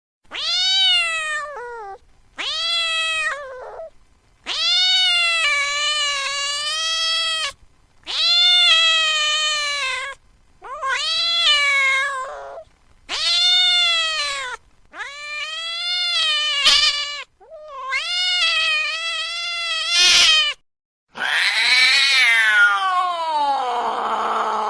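A cat crying in a series of about nine drawn-out meows, each one to three seconds long with short pauses between. The last, longest cry falls in pitch.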